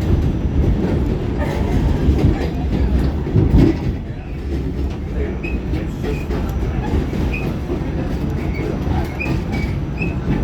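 R46 subway car running along the track, a steady low rumble with wheels clicking over rail joints. Short high wheel squeaks come in from about halfway through.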